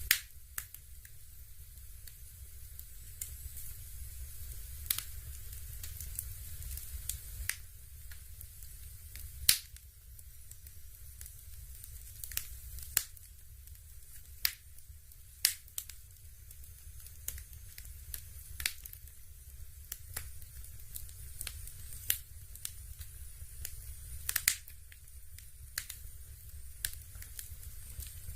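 Dimplex Opti-V Double electric fireplace running with a crackling-fire sound: sharp, irregular snaps and crackles, about one every second or two, over a low steady hum.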